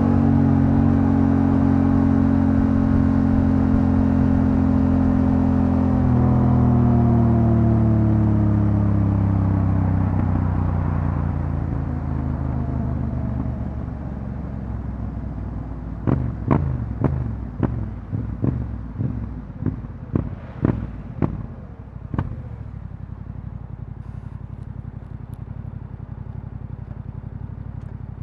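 Yamaha Ténéré 700's parallel-twin engine through an Akrapovič exhaust, running steadily under way, shifting up about six seconds in, then slowing down to idle. Midway it is blipped about ten quick times in a row before settling to a steady idle.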